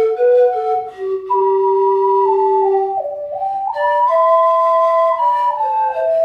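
Pan flute and ocarina playing a slow melody in two parts, one line above the other, in long held notes that step from pitch to pitch.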